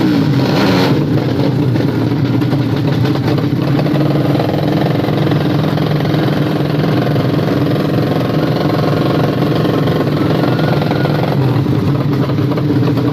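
Engine of a 200cc underbone (bebek) drag motorcycle idling loudly at a steady speed.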